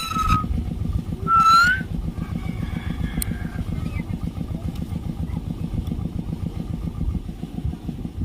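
A motor running steadily with a low, rapid pulsing. Over it, near the start, two loud, high, steady-pitched whistle-like calls about half a second each, the second ending in a slight rise.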